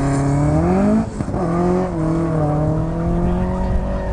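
Race car engine accelerating, its pitch climbing for about a second, then a brief break like a gear change and a steadier, slowly falling drone.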